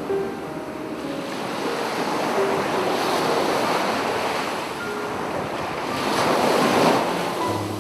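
Sea waves breaking and washing up a beach, surging twice, with the louder surge near the end.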